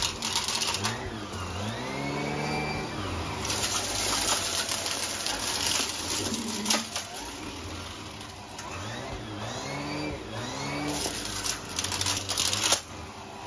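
Numatic Hetty vacuum cleaner running while sucking up debris. Its motor pitch swoops up and down several times, with bursts of hissing air and debris in the hose, and it drops away near the end.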